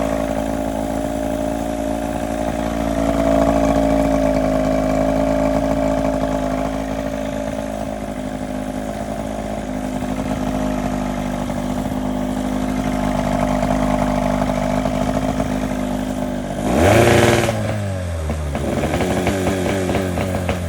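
Boat engine running steadily on test, without a propeller, after a new water pump impeller was fitted. Near the end it is revved briefly, then its pitch slides down to a lower, steady idle.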